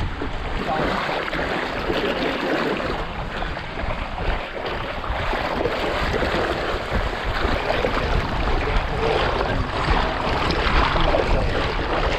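Wind buffeting the microphone over water washing against the hull of a small sailboat under way, a steady rumbling noise.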